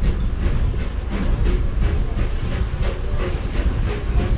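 Disneyland Railroad steam train running, heard from a passenger car: a steady low rumble with a repeated beat, with hiss from the locomotive.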